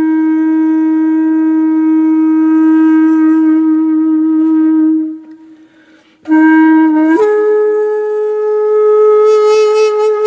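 Background music: a wind instrument holding long, slow notes. One note sustains for about five seconds and fades away; after a short pause a new note starts and steps up to a higher note that is held to the end.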